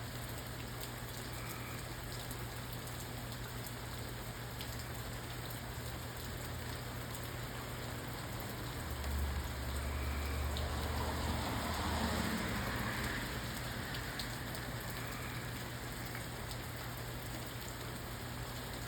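Steady rain falling and pattering on surfaces. A low rumble swells for a few seconds midway, then fades back into the rain.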